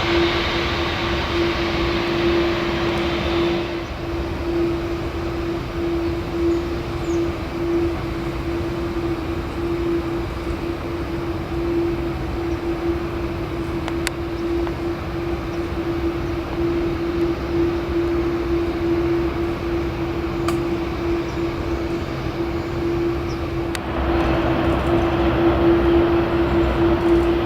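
Boeing 747-8F freighter's four GEnx jet engines running, a steady hum with one constant whining tone. A louder rushing roar at the start fades after a few seconds and swells again near the end.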